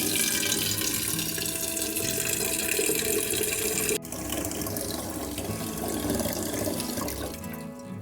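Water running from a tap into a sink. It breaks off sharply about halfway, then resumes with a changed, somewhat quieter sound that fades near the end.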